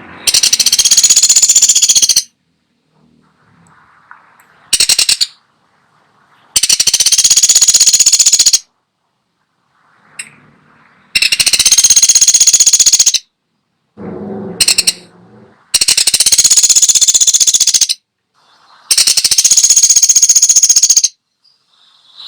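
Pelatuk sampit, a woodpecker-type bird, giving loud, high, very rapid rattling trills. There are five of about two seconds each and two short ones, with brief pauses between them.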